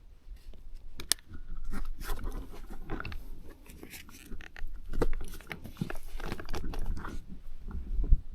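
Irregular crunching and rustling with light clicks and knocks, the sounds of something being handled close by. There is a sharp click about a second in and a low thump near the end.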